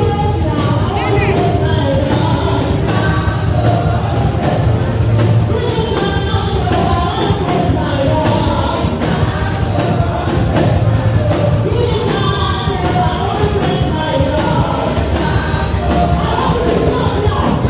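Gospel praise music in church: voices singing together over a band with a steady beat.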